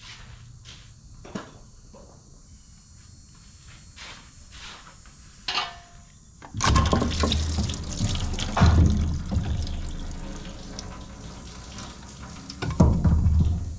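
Water gushing and splashing from a hose, flushing out the engine's cooling system. It starts suddenly about halfway in and surges twice, after a few faint clicks.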